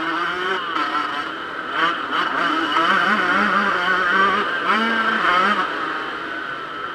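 Yamaha YZ125 single-cylinder two-stroke motocross engine revving hard, its pitch climbing and dropping again and again as the throttle is opened and shut.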